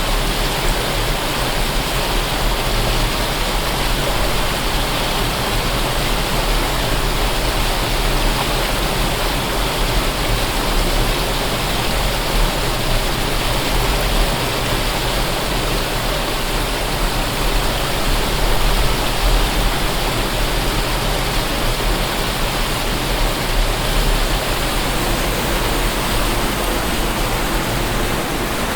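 Waterfall rushing steadily: a dense, unbroken roar of falling water with a deep low rumble beneath it.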